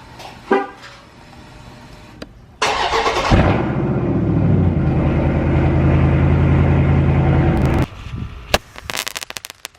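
Dodge Scat Pack's 6.4-litre HEMI V8 being started: a brief crank about two and a half seconds in, then it catches and runs loud and steady for about four seconds before cutting off abruptly. A few sharp cracks follow near the end.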